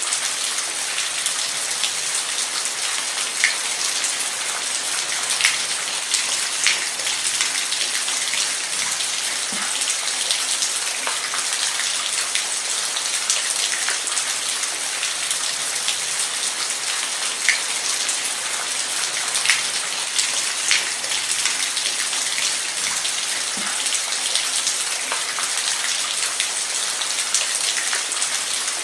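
Steady rain, an even hiss with individual drops ticking sharply on a surface here and there.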